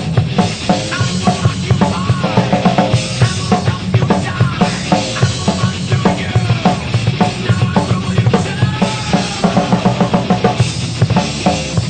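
Drum kit played along to a heavy metal recording: a rapid, steady beat of bass drum and snare under electric guitars.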